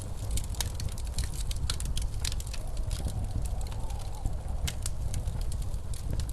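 Wood fire crackling with frequent sharp pops over the steady low rush of blizzard wind, with a faint wavering howl in the wind a few seconds in.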